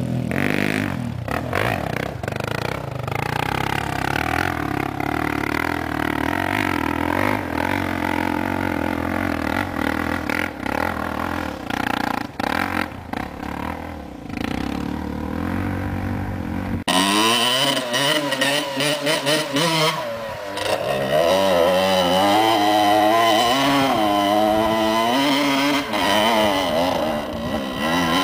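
Dirt-bike engine running under load on a hill climb, its pitch rising and falling with the throttle. About two-thirds of the way through it gives way abruptly to a closer engine revving hard, with a rapidly wavering pitch.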